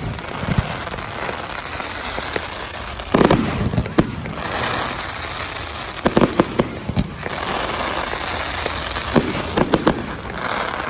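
Fireworks display: clusters of sharp bangs and pops roughly every three seconds over continuous crackling.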